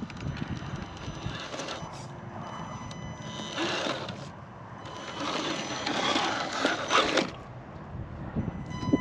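A 1/10 scale RC rock crawler's electric motor and gear drivetrain whirring in throttle bursts as it climbs over rock, with tyres scrabbling and scraping. It is loudest in two pushes, one about three and a half seconds in and a longer one from about five to seven seconds in.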